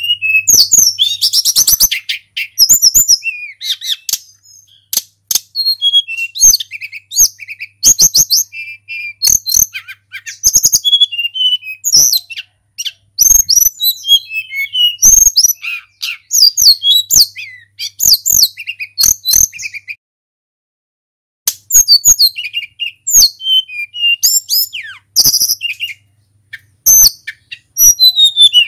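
Tledekan gunung flycatcher singing loudly: rapid, varied phrases of chirps and whistled notes, one after another with short pauses, and a break of about a second and a half two-thirds of the way through.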